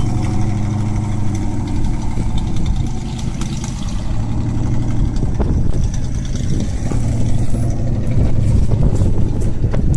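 An engine running steadily at a low pitch, dipping slightly about three seconds in.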